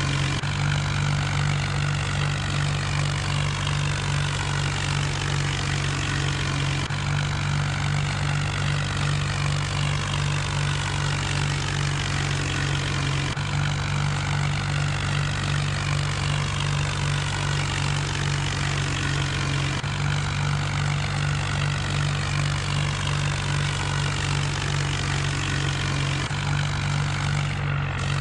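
John Deere tractor's diesel engine running steadily at a constant pitch, with no change in speed.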